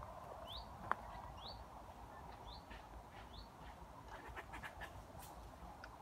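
A small bird repeats a short, rising chirp about once a second, faint in a quiet woodland. There is a sharp click about a second in, and a scatter of light ticks near the end.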